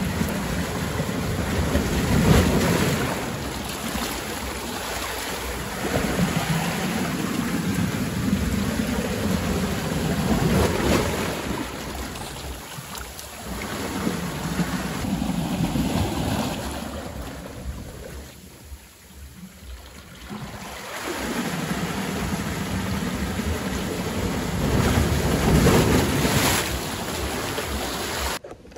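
Wind buffeting the microphone over the wash of sea water, swelling and easing every few seconds and dropping away briefly about two-thirds of the way through.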